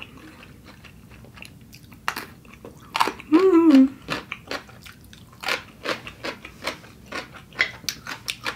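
Close-miked chewing and wet mouth sounds of a person eating, a run of short smacks and clicks. About three and a half seconds in comes a short hummed "mm".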